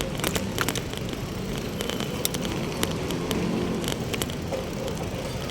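Street background noise: a steady low rumble of traffic with many scattered sharp clicks and rattles close to the microphone.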